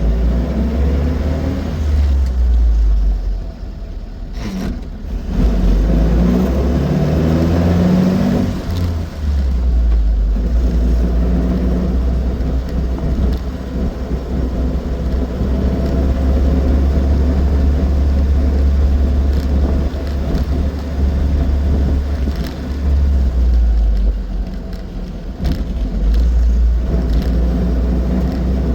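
Austin 7 Ruby's small side-valve four-cylinder engine running on the road, with a steady low rumble; the engine note drops and climbs again twice, about four seconds in and near the end.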